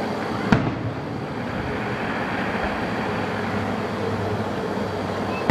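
Two fireworks bursting, one about half a second in and one right at the end, each a sharp bang with a short echo, over a steady background din.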